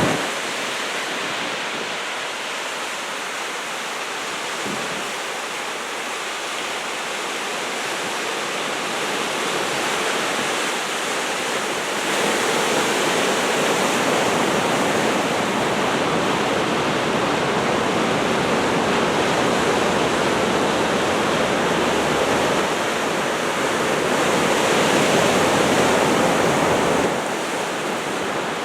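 Ocean surf from a typhoon swell breaking and washing in a steady rush. It grows louder about twelve seconds in and eases off near the end.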